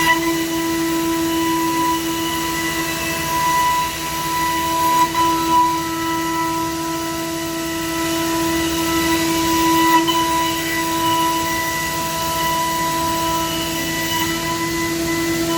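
Trima BFM 310/110 CNC machining center running, its high-speed spindle giving a steady whine made of several constant tones over a hiss.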